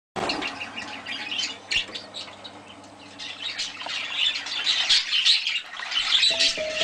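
Budgerigars chirping and squawking in quick, busy bursts of high calls that grow denser toward the end. Music comes in just before the end.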